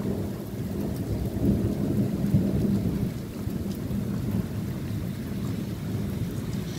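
Thunder rumbling low and steady through a thunderstorm, with rain around it.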